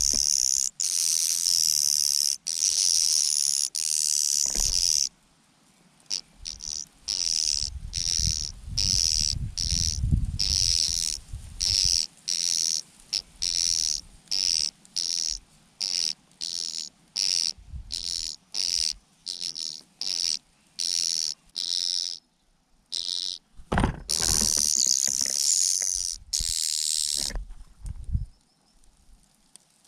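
Birds begging for food with high-pitched, buzzy calls: a continuous chorus for about five seconds, then short calls about twice a second, then another continuous stretch of calling a few seconds before the end.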